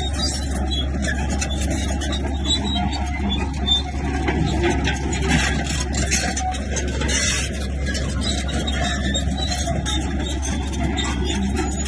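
Komatsu bulldozer's diesel engine running under work as a steady low drone, with irregular clatter and scraping over it.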